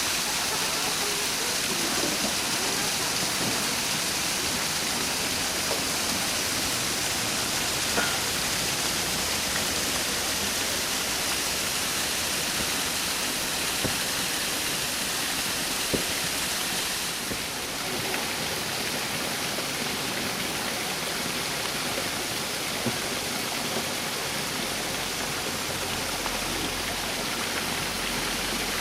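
Steady rushing hiss of falling or running water, even throughout, with a few faint ticks.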